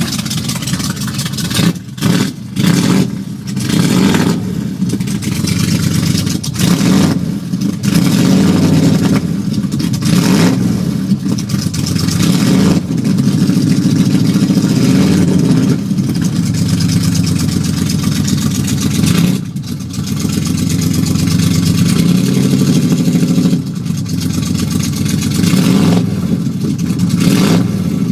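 Ford 302 V8 (5.0 L) running through side-exit exhaust pipes shortly after a cold start, warming up. It is loud, with the throttle blipped now and then so the note dips and swells.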